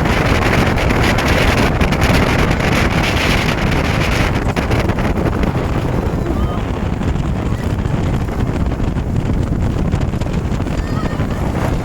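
Speedboat under way across the water, its motor and hull noise mixed with loud wind buffeting the microphone.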